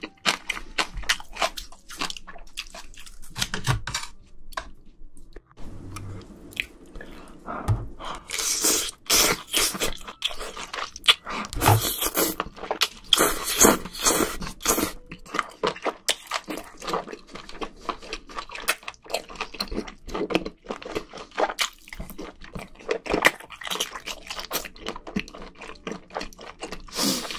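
Close-miked wet chewing and lip-smacking of spicy braised seafood, with sucking as scallop meat is bitten off the shell. Sharp, sticky clicks come thick and fast, busiest about a third to halfway through.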